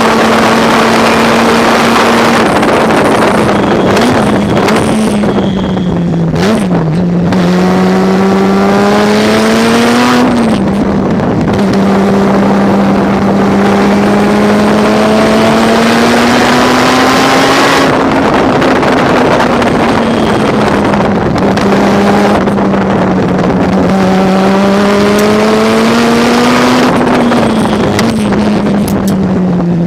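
Mazda RX-7 race car's rotary engine running hard at high revs. Its note drops sharply a few times as it shifts or lifts, then climbs again as it accelerates.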